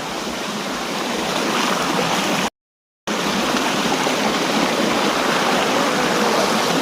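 Waterfall water rushing in a steady, loud wash. The sound drops out to total silence for about half a second, a little before the middle.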